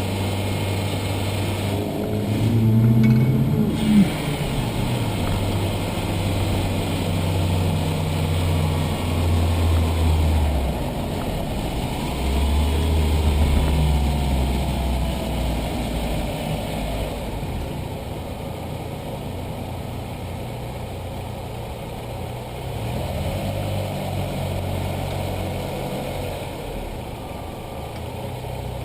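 Audi A4 B5 1.8T turbocharged four-cylinder engine idling, revved briefly about two seconds in, with a sharp click as the revs drop. The owner is trying to trace an odd noise from it that he cannot identify.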